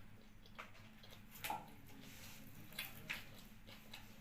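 Eating sounds up close: a few soft, wet clicks and smacks of chewing, about four in all, over a faint low hum.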